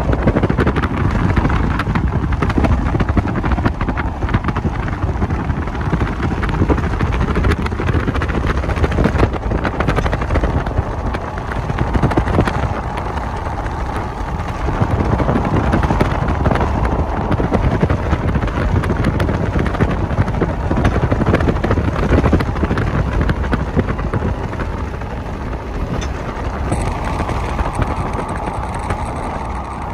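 Train rolling past: a steady, loud rumble of wheels on rail with scattered clicks throughout.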